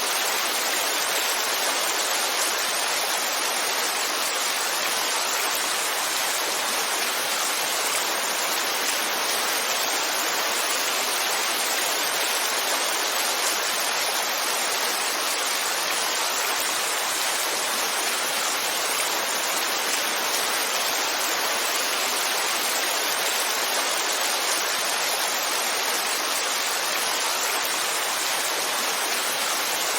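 Heavy rain falling in a steady, unbroken hiss with no distinct drops, thunder or other events.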